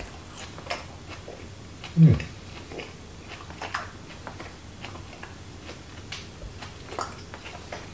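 A person chewing a mouthful of steak with closed-mouth, wet clicking sounds. About two seconds in there is a short hum of the voice that falls in pitch.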